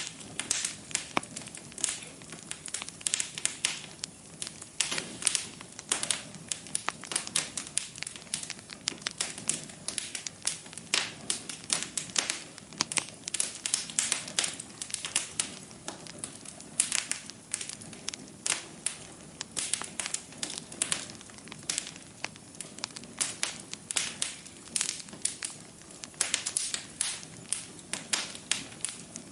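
Wood fire burning in a fireplace: a steady soft hiss with dense, irregular pops and crackles, several a second.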